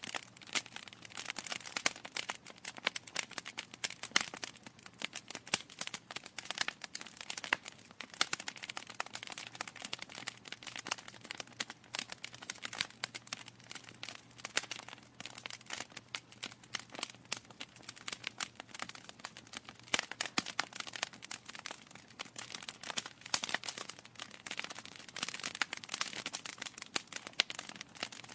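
Wood fire crackling in a fireplace: dense, irregular snaps and pops from burning logs over a soft hiss, with a faint low hum.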